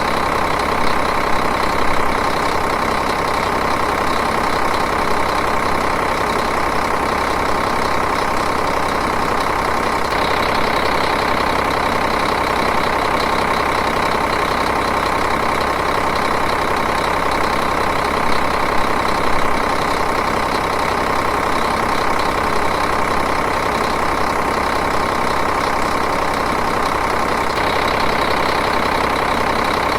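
Diesel engine idling steadily, an even unbroken running sound.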